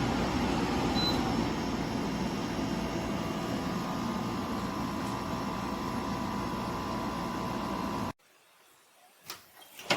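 Joy Pebble 2.0 kW portable spot cooler running: a steady airy whir with a faint hum, which cuts off abruptly about eight seconds in, followed by a couple of sharp clicks near the end.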